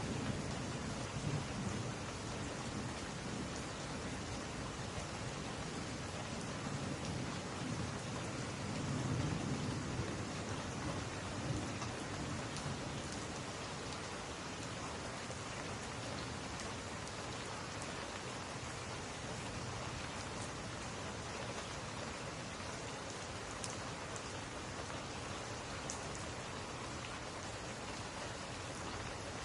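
Steady rain falling, with low rumbling swells in the first ten seconds or so that die away.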